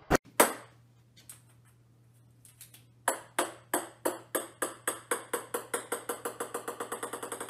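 Two sharp knocks in the first half second. Then, from about three seconds in, a small orange ball, most likely a table tennis ball, bounces on a hard wooden floor. The bounces come quicker and closer together as it settles.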